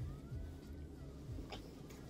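Close-up chewing of a mouthful of deviled egg, with a soft click about one and a half seconds in, over faint background music.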